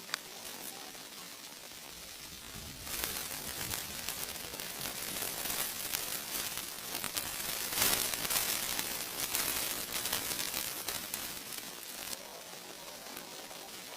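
Food sizzling and crackling in a hot pan over a campfire. The sizzle gets louder about three seconds in and falls back near the end.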